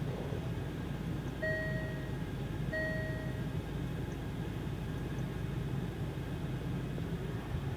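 Two short electronic chimes from the Range Rover Evoque's in-car warning system, each about half a second long and a little over a second apart, over a steady low hum in the cabin.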